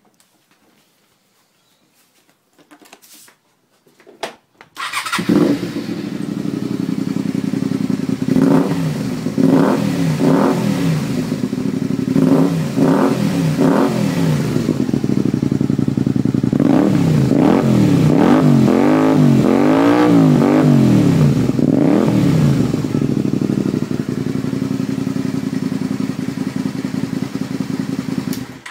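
Honda VTR 250 V-twin motorcycle engine with an aftermarket exhaust, starting about five seconds in after a few clicks. It idles, then is revved in two runs of quick throttle blips, each rising and falling in pitch, before settling back to idle and shutting off near the end.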